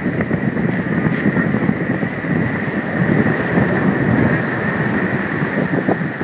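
Strong gusty wind blasting the phone's microphone, a dense, uneven rumble, with a thin steady whine above it.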